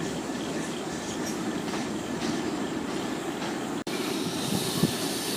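Freight train wagons rolling slowly past, a steady rumble of wheels on rail with faint clicks. The sound drops out for an instant a little before four seconds in, and a single louder knock comes near the end.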